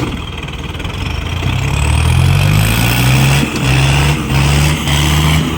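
Diesel tractor engine running hard under load, with a loud low drone that builds about one and a half seconds in and then pulses on and off at a steady rhythm.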